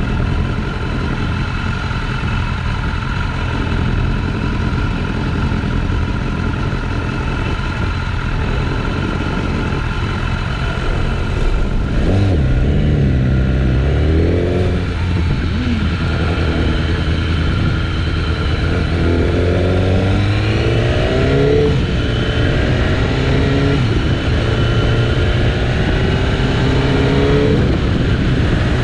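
BMW S1000RR inline-four engine running under way, accelerating with rising revs about twelve seconds in and again in repeated climbs from about nineteen seconds, its note dropping between them as it shifts gears.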